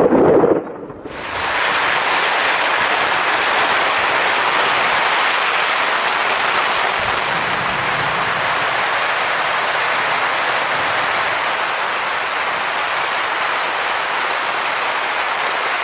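Heavy rain in a downpour, a steady, dense hiss that sets in abruptly about a second in. It follows a loud low rumble of thunder that dies away within the first second.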